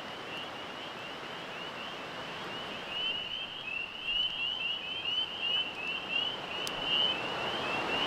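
A chorus of small frogs peeping: short, high, rising chirps repeated several times a second, growing louder about three seconds in, over the steady rush of river rapids. One sharp click comes near the end.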